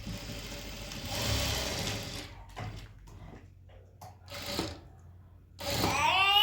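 Sewing machine running in a short burst of stitching, then quieter with a few clicks. Near the end a baby starts crying.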